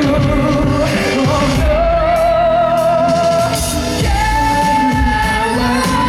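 Live K-pop ballad with a male singer holding long notes with vibrato over the band and backing track. He holds one note, then a higher one from about four seconds in.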